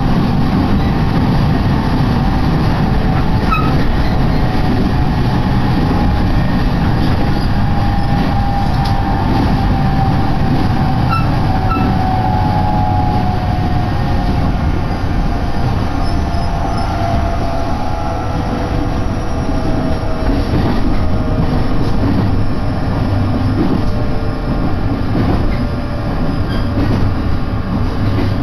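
Electric train running, heard from inside the carriage: a steady rumble of wheels on rails, with a faint whine that falls slowly in pitch through the middle.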